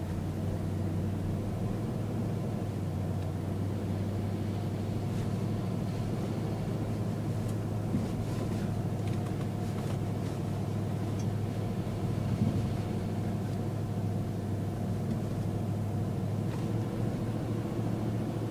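Dodge Durango's Hemi V8 running steadily as it drives on beach sand, a constant low drone, with a brief thump about twelve seconds in.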